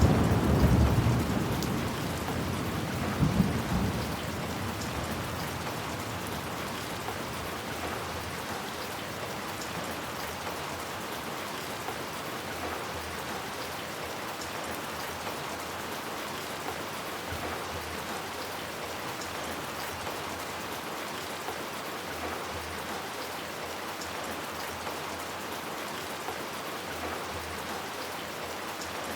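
Steady rain falling, an even hiss. A roll of thunder is fading away over the first few seconds, with one last small rumble about three seconds in.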